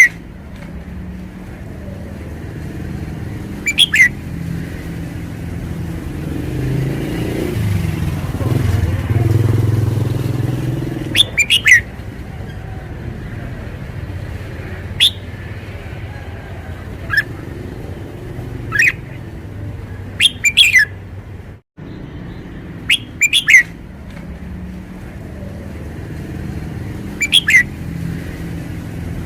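Red-whiskered bulbul singing short, loud phrases every few seconds. Beneath it a steady low engine rumble, like passing motor traffic, swells about a third of the way in.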